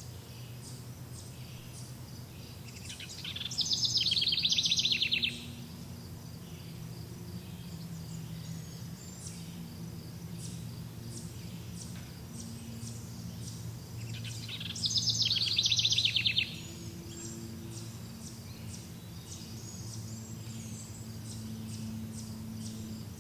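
A songbird sings two loud, rapid trilled phrases about eleven seconds apart, each lasting about two seconds, over many faint, short high chirps from other birds. A steady low rumble runs underneath.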